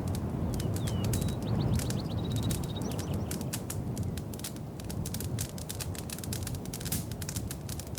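Wood fire in a fireplace crackling, with many sharp irregular pops over a low steady rumble of the flames.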